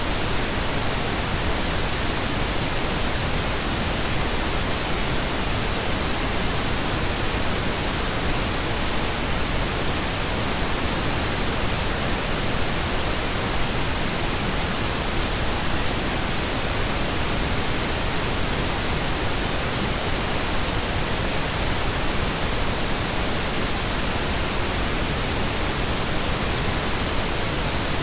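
Synthetic pink noise: a steady, even hiss spread across all pitches, unchanging throughout.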